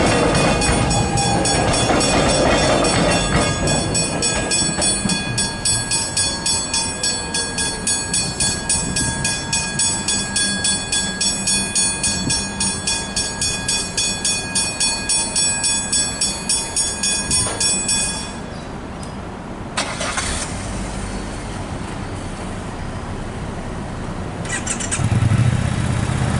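Railway level crossing bells ringing rapidly and evenly, over the rumble of a passing train at first. The bells stop abruptly about eighteen seconds in, and a low rumble of another vehicle builds near the end.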